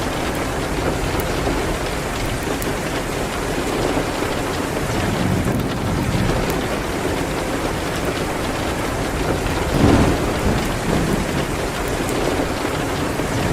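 Steady rain hitting a window, with a fireplace faintly crackling now and then. A low rumble swells and fades about ten seconds in.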